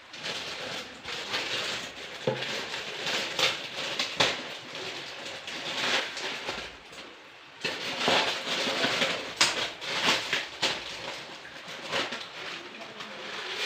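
Irregular rustling and clattering of packets and kitchen containers being handled, with sharp clicks, as dry groceries are emptied into storage jars.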